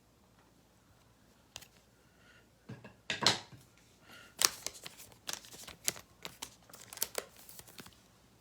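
Trading cards and plastic packaging being handled at close range: a quiet stretch, then from about three seconds in a busy run of crinkles, rustles and light clicks.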